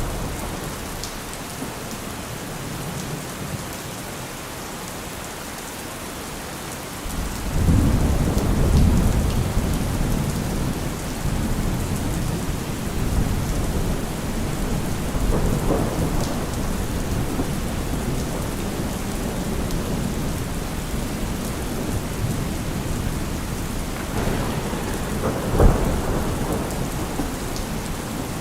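Steady rain falling, with a long low roll of thunder that swells about seven seconds in and rumbles on, and a sharper crack of thunder near the end.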